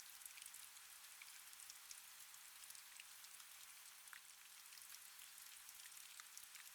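Faint, steady rain: a soft hiss with many light drops ticking through it.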